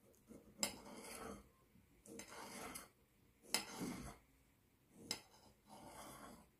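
Dishes and cutlery being handled in a kitchen: four short bouts, each a sharp clink followed by a brief scraping or rubbing sound.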